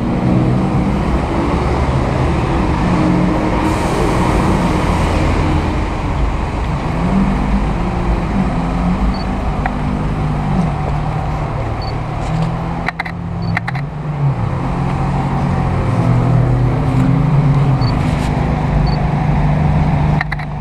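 Supercar V12 engines idling in the street: a deep engine note that rises and falls over steady traffic noise. There are a few sharp clicks about two-thirds of the way through.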